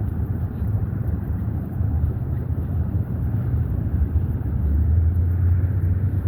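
Steady low rumble of road traffic on a busy multi-lane street, swelling a little in the second half as vehicles pass.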